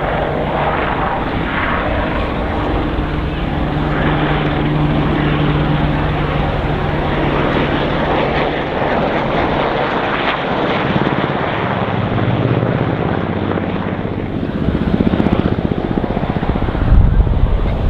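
Westland Sea King helicopter flying: the steady noise of its rotors and turbine engines with a low hum. It grows louder near the end, with a heavy low rumble just before the end.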